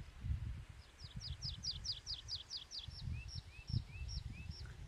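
A small songbird singing a fast run of about a dozen short, high, falling notes that slow toward the end, with four lower rising chirps near the end. Low buffeting rumble on the microphone underneath.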